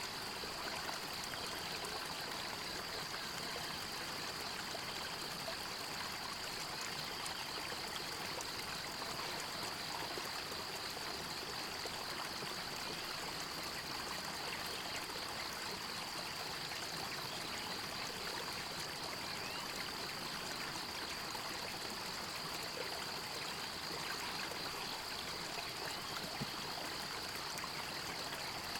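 Stream water running and trickling steadily, with a high, finely pulsing trill over it.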